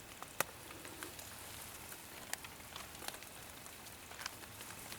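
Raindrops striking a cuben fiber tarp overhead: irregular sharp taps, the loudest about half a second in, over a faint steady hiss of rain.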